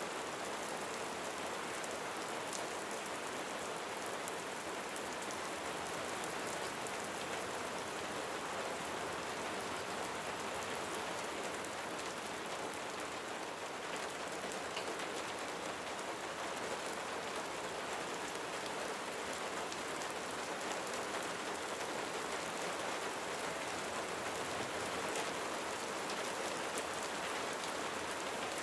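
Steady rain falling on a roof, an even patter of drops with no thunder.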